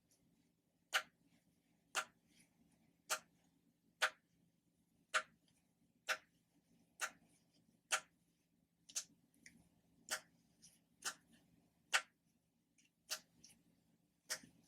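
Ocean-animal popper toys being popped: sharp single pops at a steady pace of about one a second, with a few fainter clicks between them.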